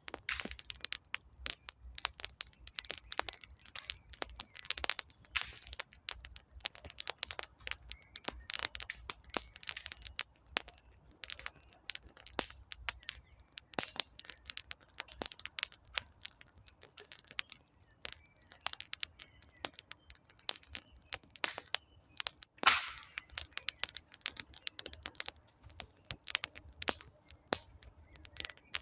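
Wood campfire crackling: dense, irregular snaps and pops of burning logs, with one louder pop about three-quarters of the way through.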